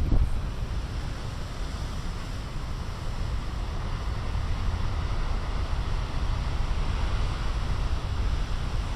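Ocean surf breaking and washing ashore in a steady rush, with wind buffeting the microphone as a heavy low rumble.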